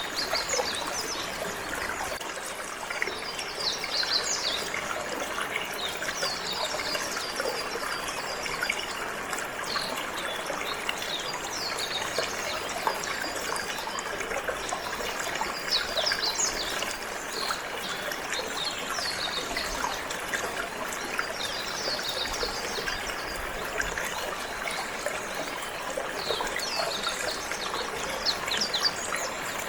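Water trickling and flowing steadily, with a canary singing over it in repeated runs of high, quick chirps and trills.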